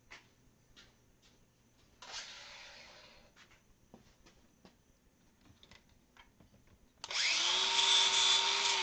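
Cordless angle grinder fitted with a flap disc, running without load. About two seconds in it is triggered briefly and coasts down. A few light handling clicks follow, then near the end it runs up to speed again with a steady whine.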